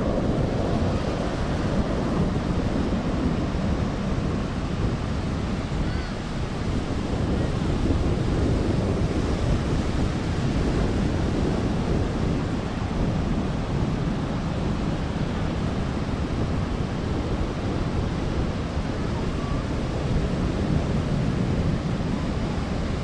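Wind buffeting the microphone over the steady wash of surf, a dense low rumble that holds even throughout.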